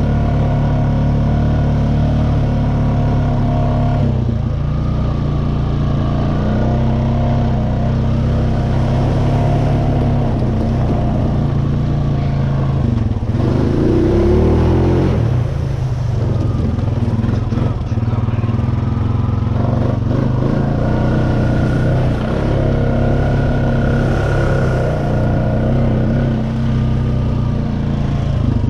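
Honda Rancher ATV's single-cylinder engine running steadily while riding, its pitch rising and falling a little with the throttle. There is a brief louder surge about halfway through.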